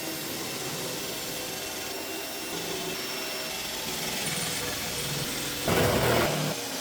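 Electric drill running steadily as it bores into the sheet-steel top of a car's front strut mount, louder for a moment near the end.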